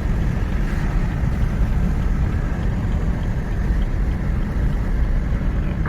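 Car driving along: steady engine and road noise heard from inside the cabin.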